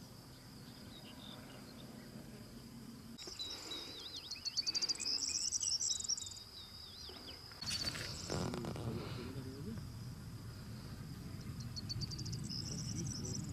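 Insects, likely crickets, trilling with a steady high note that swells twice into rapid pulsing, with a few short bird calls over it. A brief rustle about two-thirds of the way through, followed by a low rumbling noise.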